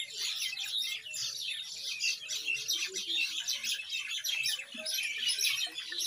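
Bird chirping: many quick, high-pitched chirps that overlap and keep going without a break.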